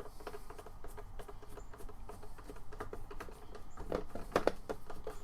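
Light clicks and ticks of parts being handled as a screw is turned in by hand on a string-trimmer attachment, with a few sharper clicks about four seconds in.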